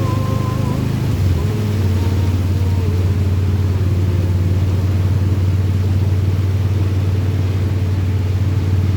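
Road vehicle driving at steady speed: a loud, steady low engine-and-road drone. Its pitch dips and shifts briefly about a second and a half in, then settles again.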